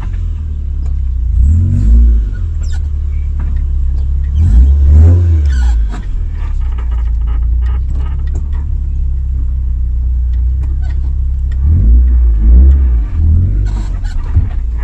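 Car engine revved three times, each rev rising and falling in pitch, over a steady deep rumble.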